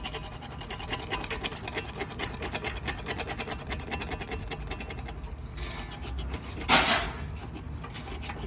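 Tire patch roller pressed hard and rolled over a rubber patch on a motorcycle tire, a rubbing sound with a fast, even run of ticks as the wheel turns, to seat and seal the patch over the nail hole. One louder, short scrape about two-thirds of the way through.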